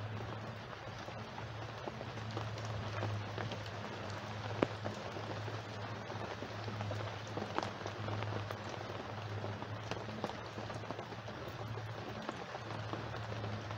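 Steady rain falling, with many individual drops tapping close by and one sharper tap about a third of the way through, over a steady low hum.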